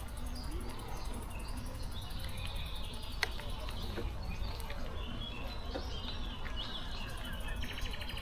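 Small birds chirping and calling in the park trees over a steady low outdoor rumble, with one sharp click about three seconds in and a quick rattling trill near the end.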